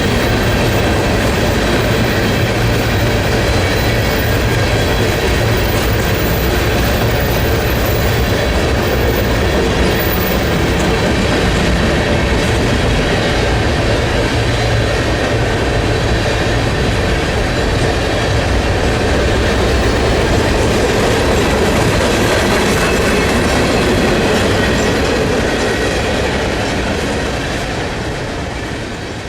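Freight train rolling past, its cars' wheels clattering over the rail joints in a loud, steady rumble that begins to fade near the end.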